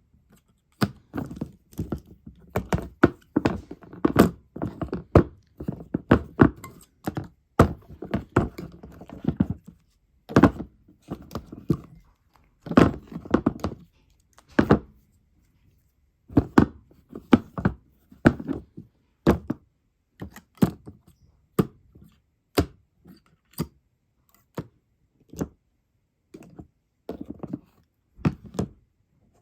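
An irregular series of thunks and knocks on a hard surface, sometimes several a second in quick clusters, sometimes single, with a pause about halfway through.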